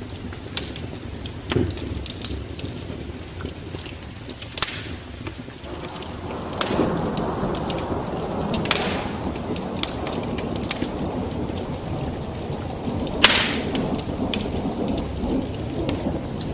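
A wood fire crackling, with sharp scattered pops, over a steady rain-like hiss. A low rumbling swell comes in about six seconds in.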